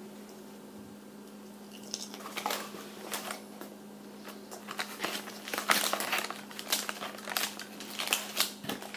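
A person chewing lightly breaded chicken bites topped with crispy bacon: irregular crunchy, crackly chewing noises starting about two seconds in and getting busier toward the end, over a faint steady electrical hum.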